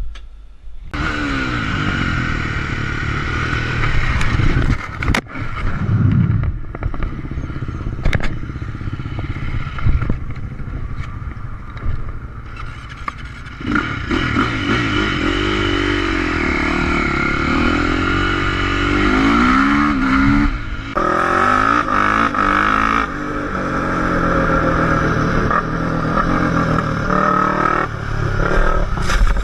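Motorcycle engines running and revving, the pitch rising and falling, over steady rushing noise. The sound changes abruptly a few times, and there is a single sharp crack about five seconds in.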